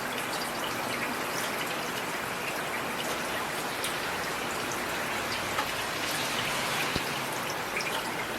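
Heavy rain falling steadily, an even hiss with many sharp drop ticks scattered through it.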